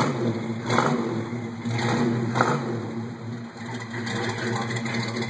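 Chevrolet El Camino SS 396's big-block V8 idling through its side-exit exhaust, with two short blips of the throttle, one under a second in and one about two and a half seconds in.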